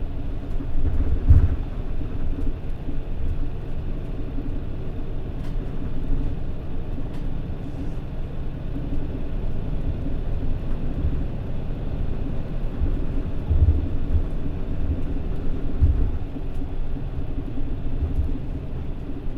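Mitsubishi Fuso Aero Star city bus driving, heard from inside the cabin: a steady diesel engine drone with road rumble that swells now and then.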